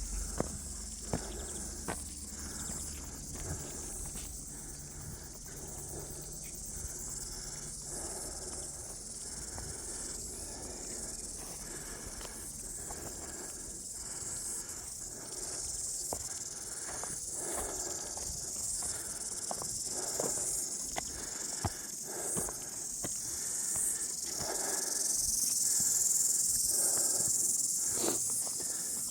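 Footsteps walking along a bush trail, over a steady high-pitched chorus of insects that grows louder near the end.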